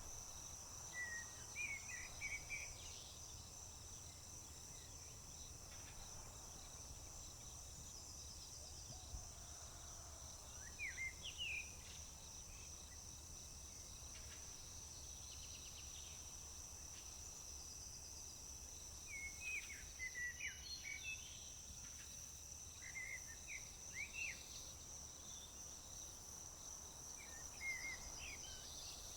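Steady, high-pitched chorus of crickets, faint, with a songbird breaking in with short chirping phrases about five times.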